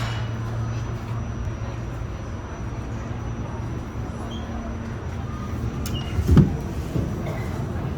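Steady low hum inside an R46 subway car standing held in the line, with one dull thump a little past six seconds in and a lighter knock just after.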